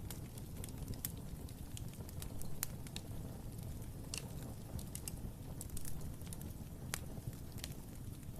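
Wood fire burning in a fireplace: a low steady rumble with scattered sharp crackles and pops, one or two a second.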